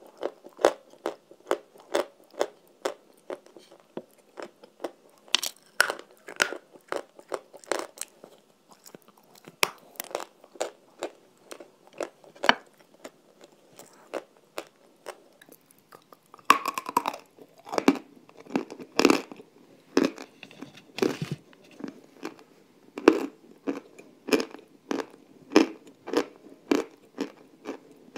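Close-miked mouth sounds of someone biting and chewing a hard, crumbly white block. It crunches in quick, sharp bursts, about two to three a second, with a longer, louder crunch about seventeen seconds in.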